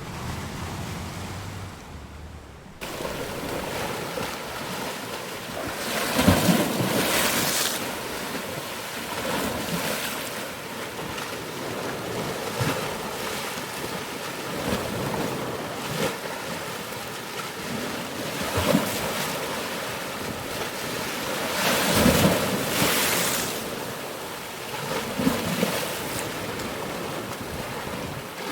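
Ocean surf: a steady wash of waves that cuts in abruptly about three seconds in, with bigger waves breaking about six and twenty-two seconds in.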